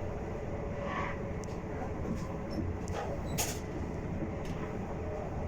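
Cabin of a Class 450 Desiro electric train under way: a steady low rumble of wheels on rail. A short sharp click comes about three and a half seconds in.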